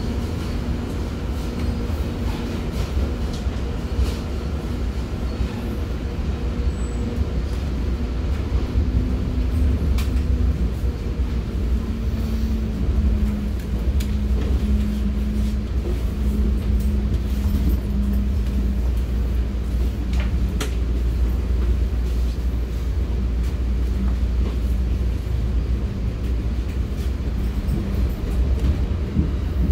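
Commuter train running along the track, heard from inside a passenger car: a steady low rumble with a faint hum and a few sharp clicks.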